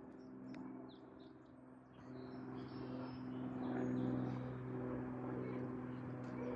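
Mooney M20K light aircraft's piston engine and propeller, a steady-pitched drone that grows louder from about two seconds in as the plane takes off. Faint bird chirps are heard in the background.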